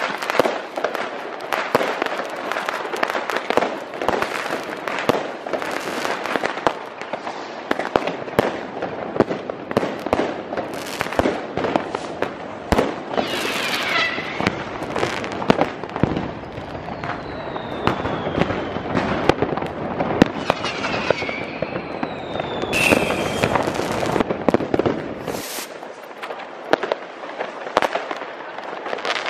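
New Year's Eve fireworks going off in a dense, continuous barrage of firecracker bangs, rocket bursts and crackle. Several whistles fall in pitch over its middle part, and a few louder single bangs stand out.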